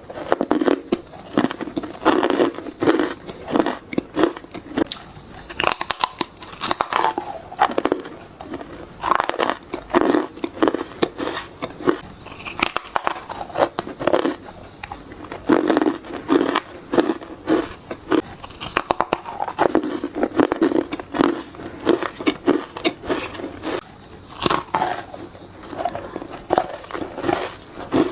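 Hard ice being bitten and crunched close to the microphone: rapid runs of sharp, crackling crunches that come in repeated bursts of a second or two each.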